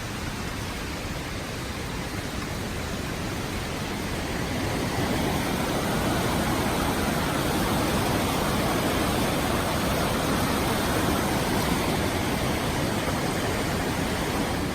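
Steady rushing of waterfall water, swelling louder about four seconds in and then holding steady.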